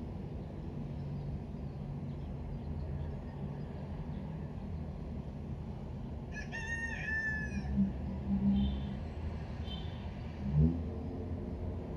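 A rooster crows once, a short call about halfway through, over a steady low background hum. A brief low thump follows near the end.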